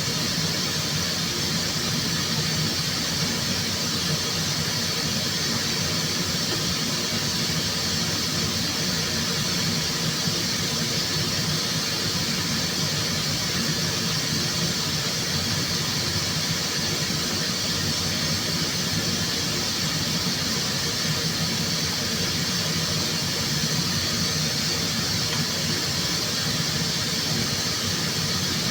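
Steady hiss with a low hum from running paint-shop air equipment, unchanging throughout.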